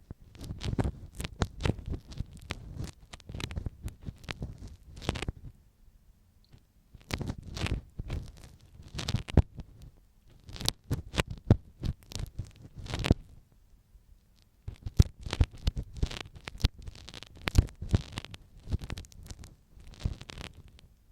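Ear pick scraping, scratching and tapping right against the microphone for ear-cleaning ASMR, in irregular clusters of short crackly strokes with two brief pauses.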